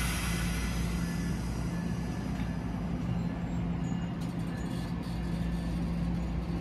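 Electric locomotive of a stopped commuter train humming steadily, a low drone with a steady low tone.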